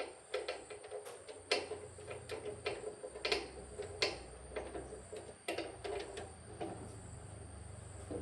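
Irregular light clicks and knocks, about one or two a second, from hand work on small metal machine parts, over a faint steady low hum.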